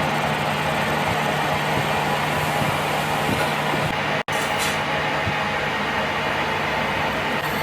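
A machine running steadily, a constant hum under an even noise, with a brief cut to silence about four seconds in.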